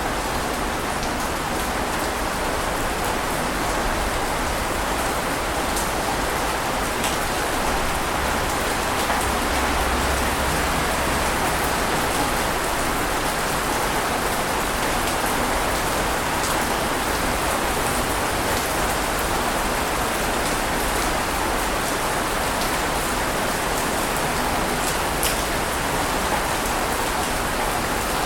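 Steady rushing of water without distinct wave crashes, with a few faint sharp ticks like drops.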